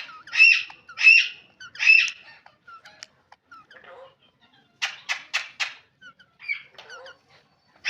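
Ringneck parrot calling: three loud squawks in the first two seconds, then a quick run of four harsh notes about five seconds in, with small chirps in between.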